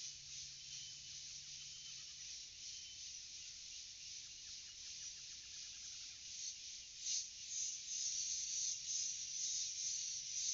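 Forest ambience: a dense, steady chorus of insects, with a bird giving rapid runs of short notes in the first half. The insect chorus grows louder about seven seconds in.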